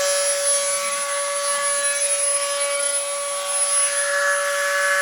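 Small high-speed rotary tool running with a steady high whine, grinding a groove into the hardened epoxy steel putty fender; the rasp of the bit on the putty grows from about four seconds in.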